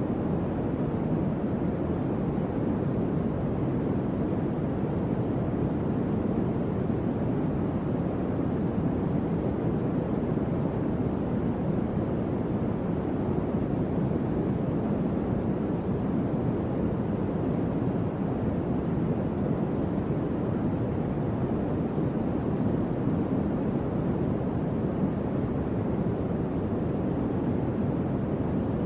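Electric fan running steadily: an even, low whooshing hum of moving air with no change in pitch or level.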